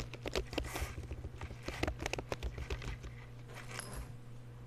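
Typing on a computer keyboard: a quick, irregular run of keystrokes for about three seconds, thinning to a few taps near the end, as a chart label is typed in.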